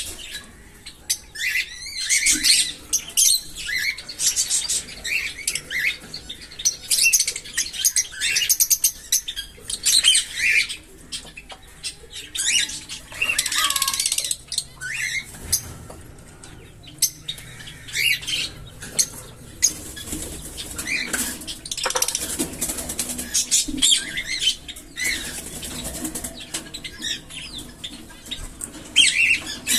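Small pet parrots chattering: many short, overlapping high chirps and squawks without a break.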